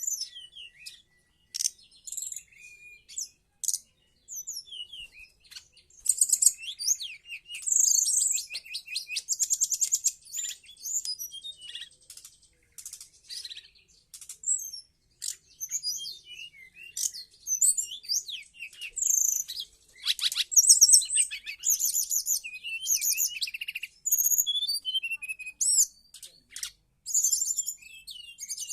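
Brown-chested jungle flycatcher (SRDC, sikatan rimba dada coklat) singing continuously: a busy run of high, varied chirps, slurred whistles and rapid trills with short pauses, growing denser after the first few seconds.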